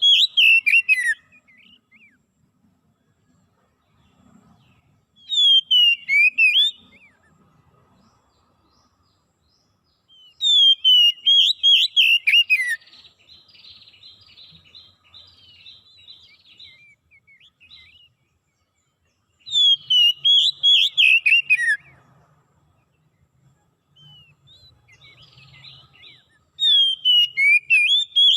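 A songbird singing loud phrases of rapid, falling whistled notes, each lasting a second or two and repeated every several seconds, with softer twittering in between.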